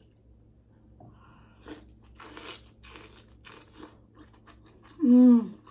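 Close-miked chewing and crunching of a mouthful of seafood boil, in a run of short wet bites. About five seconds in, a short loud 'mmm' of enjoyment that falls in pitch.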